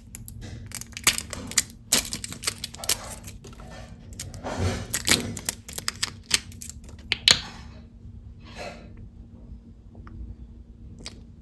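Crinkling and clicking of plastic packaging as a sealed product is handled and opened. It is busiest in the first seven seconds, then turns to a few scattered clicks.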